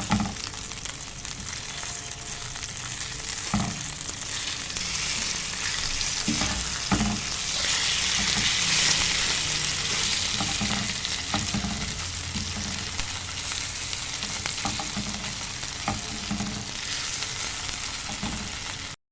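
Marinated chicken pieces sizzling as they fry in oil in a pan, the sizzle swelling louder midway, while a spatula stirs them and knocks against the pan a few times.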